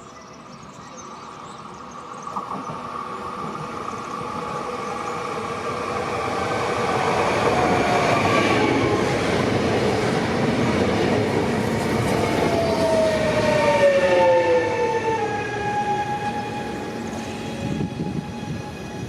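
A train passing through the station without stopping: the rumble of its wheels on the rails builds to a peak about halfway through and then eases off. Steady whining tones run through it, and some slide down in pitch as the train goes by.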